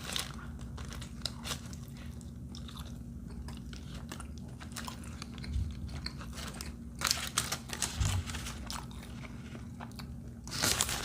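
Close-up chewing of a mouthful of chicken arepa: wet mouth noises with small crunches and clicks, a few louder near the end.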